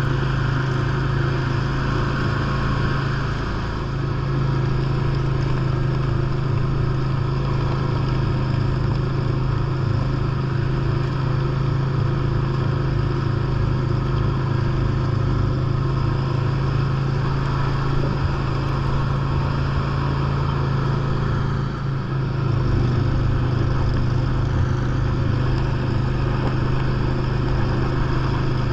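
John Deere lawn tractor engine running steadily at working speed while driving a 44-inch front snow blower through heavy compacted snow. The engine note and blower noise sag briefly twice, about 4 seconds and 22 seconds in.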